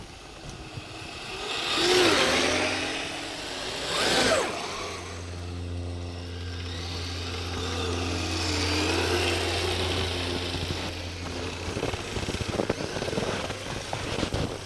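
Electric motor drive of a radio-controlled Kyosho Blizzard snowcat whining up and down in pitch twice, then running at a steady pitch for several seconds.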